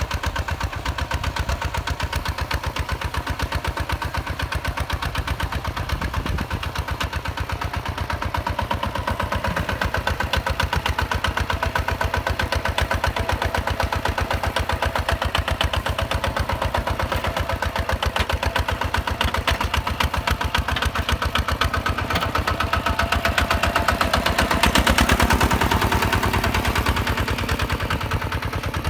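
Tractor diesel engine running steadily with a fast, even knock of firing strokes; it swells louder for a few seconds near the end, then settles back.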